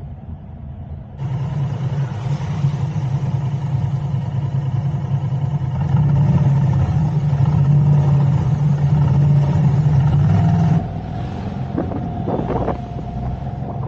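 Vehicle engine and road noise on a city drive: a steady low engine hum that grows louder about halfway through, then drops back suddenly near the end.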